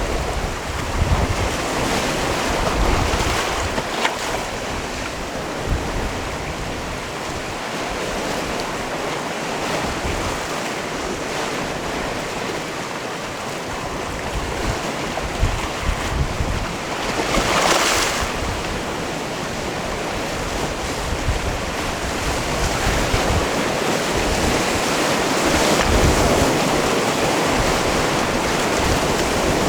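Sea waves washing in and breaking on a stony cove, a continuous surf with one louder wave breaking a little past halfway. Gusts of wind on the microphone add low buffeting.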